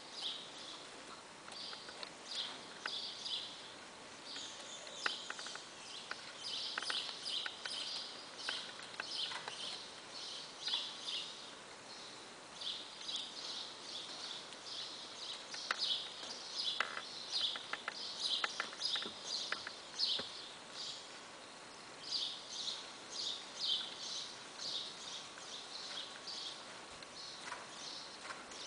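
Many small birds chirping and chattering almost nonstop, a dense high-pitched chorus of quick chirps with a few short lulls.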